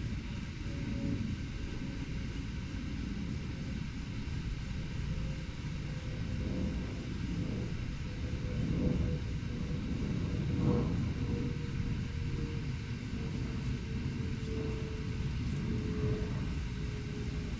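Steady low rumble of distant urban traffic, with a faint hum that slides slowly lower in pitch.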